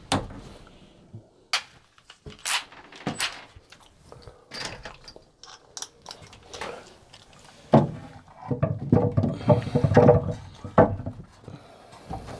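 Hand assembly noises: a series of separate sharp clicks and knocks as screws and fittings are handled. Near the end comes about two seconds of denser rattling and scraping.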